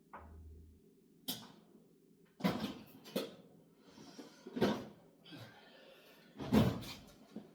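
Hand tools clattering as a smaller screwdriver is sought out: several sharp knocks and clicks, the loudest near the end, with rustling between.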